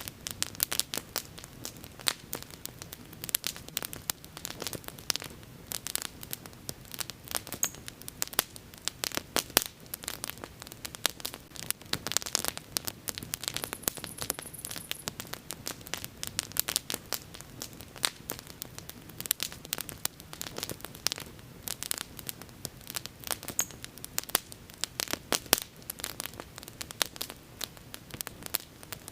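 Wood bonfire burning, with dense, irregular crackling and sharp popping over a steady low background of the flames.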